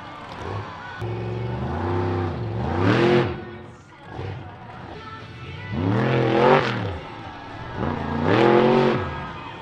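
MissFire monster truck's engine revving hard in repeated bursts, the pitch rising and falling with each rev.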